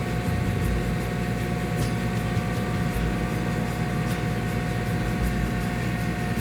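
A motor running steadily, with a constant low drone and occasional light clicks or knocks.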